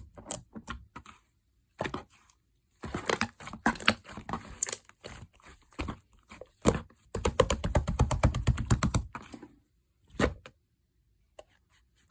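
Slime being squished and pressed by hand, making irregular bursts of sticky clicks and crackles, with a fast run of popping clicks for a couple of seconds near the middle.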